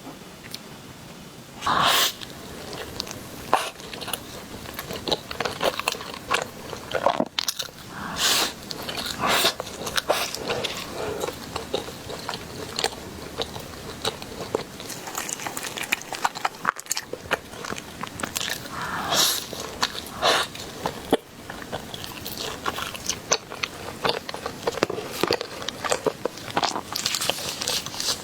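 A person eating: repeated bites and chewing with many short clicks. Louder bites come every few seconds.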